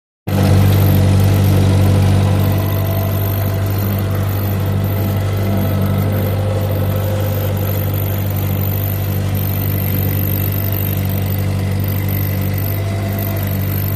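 Ford 8N tractor's four-cylinder gasoline engine running steadily, a little louder for the first couple of seconds.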